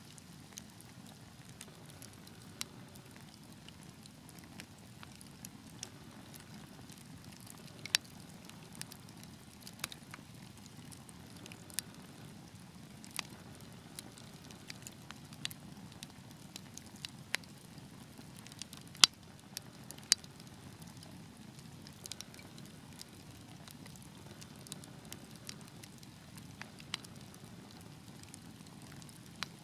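Wood fire burning in a fireplace: a soft steady rumble of flames with scattered sharp crackles and pops, a few louder pops standing out.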